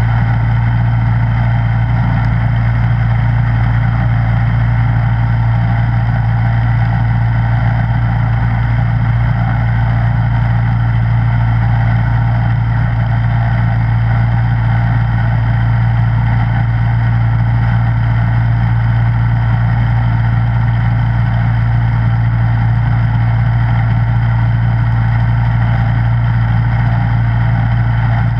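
Snowblower engine running steadily at a constant speed, with an even low hum that does not change.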